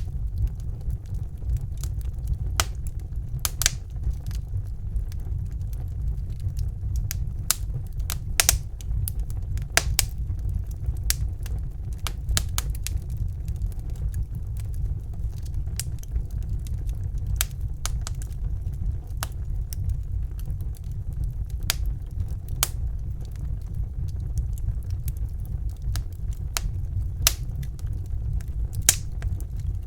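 Wood fire crackling and popping in a fireplace: irregular sharp pops, a few louder ones, over a steady low rumble of the flames.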